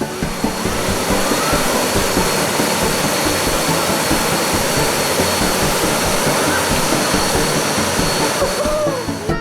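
Steady, loud rush of flowing river water, with a thin steady high tone running above it.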